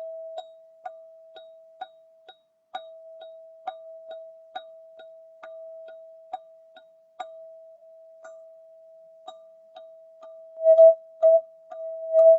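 Golden ZenTube sound-healing instrument ringing on one steady pitch, kept sounding by light strikes about every half second. The strikes grow louder and come in quicker pulses near the end.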